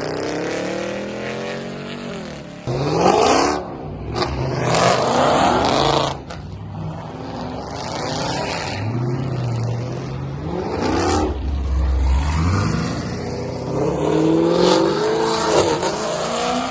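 Car engines revving hard, the pitch climbing and falling in several repeated surges. A deeper rumble comes in a little before the middle.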